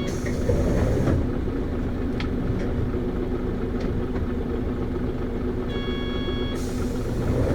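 Isuzu PKG-LV234Q2 city bus's 6HK1 inline-six diesel idling steadily at a stop, heard from inside the cabin. A brief air hiss sounds near the start, and a short electronic tone sounds about six seconds in.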